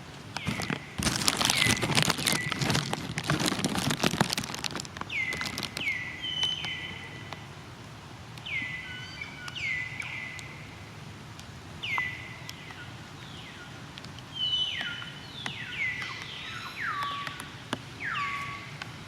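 Rustling, pattering noise for the first few seconds, then a series of short high animal calls. Each call drops sharply in pitch, and they come irregularly, about one a second.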